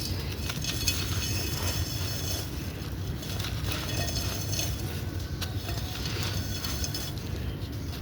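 Low, steady rumble of a vehicle moving off into the distance, with faint crisp crackling over it.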